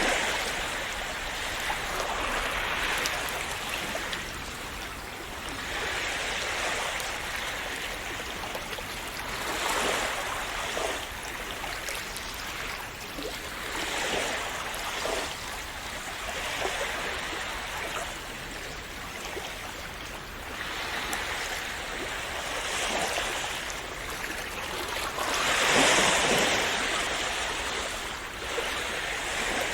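Calm sea waves washing and splashing, the rush of water swelling and easing every few seconds, with the biggest swell near the end.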